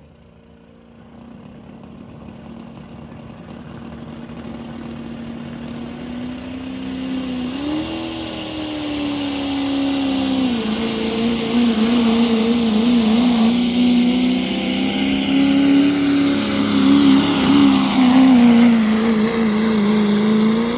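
Diesel pulling tractor running at full throttle down the track with the sled behind it. The engine grows steadily louder as it nears, and its pitch wavers and jumps in the second half as the tractor bounces and loads up.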